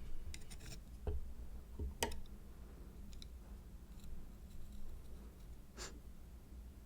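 Close-miked sea-grape mukbang handling and eating sounds: a handful of soft clicks and crisp pops spread over several seconds, a quick cluster near the start and a longer crackle near the end, over a low steady hum.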